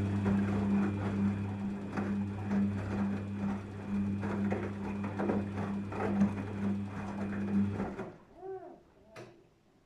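Daewoo DWD-FT1013 washing machine in its rinse cycle: the motor hums steadily while water and laundry slosh and splash in the drum, then everything stops abruptly about eight seconds in.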